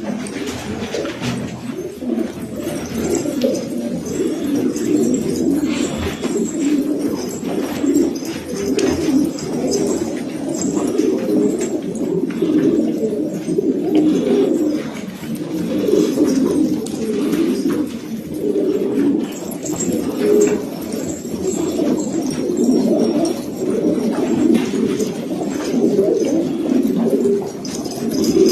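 A flock of domestic pigeons cooing together, many low coos overlapping into a continuous chorus.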